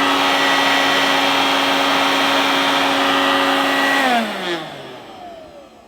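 1988 Hoover Dustvac S1262 handheld vacuum cleaner's motor running at a steady high whine, noisy and a bit vibratory. About four seconds in it is switched off and the motor winds down, its pitch falling away.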